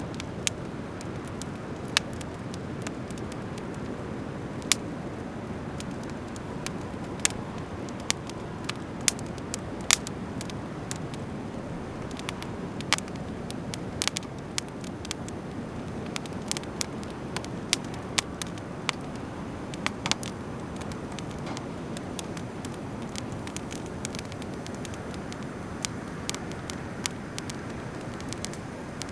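Driftwood fire crackling, with sharp, irregular pops, most of them in the middle stretch, over a steady low rushing noise.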